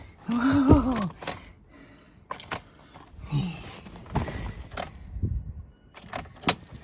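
Irregular clicks and knocks with car keys jangling as someone tries to start a 2007 Ford Territory that will not start. A short hummed vocal sound comes about half a second in.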